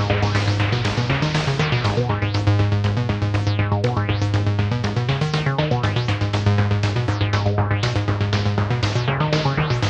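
Moog DFAM analog percussion synthesizer and Mother-32 semi-modular synthesizer playing an electronic jam. A fast, steady sequenced percussive pulse runs over a strong held bass note that steps up and down in pitch, and the brightness sweeps open and closed every few seconds.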